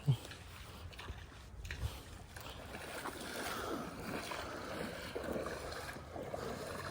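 Lake water sloshing and splashing around a person's legs as he wades in the shallows, with a short thump right at the start and the sloshing building from about halfway through.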